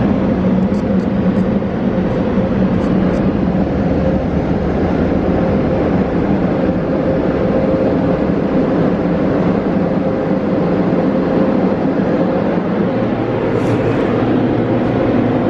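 Touch-free automatic car wash's dryer blowers running with a steady roar and a constant hum, heard muffled from inside the car at the end of the wash cycle.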